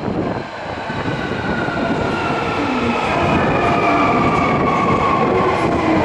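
Subway train running into an underground platform: a loud rumble of wheels and air with an electric motor whine whose tones slowly fall in pitch as the train slows.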